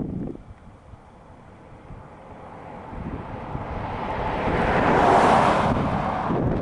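A road vehicle passing close by: tyre and road noise swells for a few seconds, peaks about five seconds in, then falls away, over low wind rumble on the microphone.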